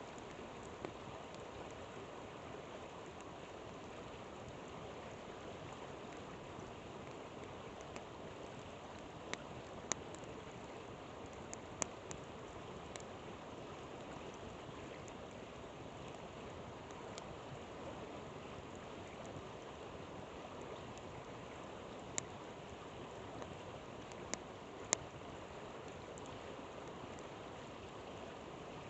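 Flowing river making a steady rushing sound, with scattered sharp pops and crackles from a campfire, a few of them bunched around the middle and again near the end.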